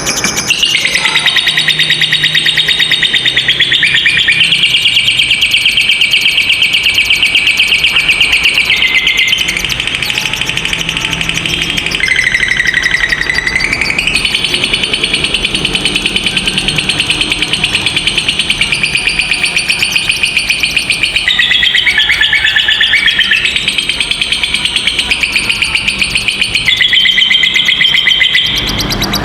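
Lovebird giving long 'ngekek' trills: a rapid, buzzy run of high chattering notes held for many seconds at a time, broken by a few short pauses.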